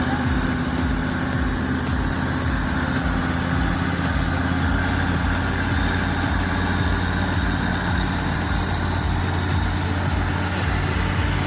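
Diesel engine of a logging truck loaded with heavy logs, running steadily with a low, even hum.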